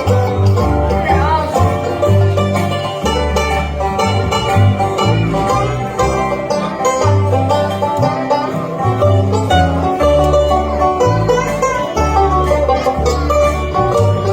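Bluegrass band playing an instrumental break, with banjo prominent over guitar and a bass line of changing low notes.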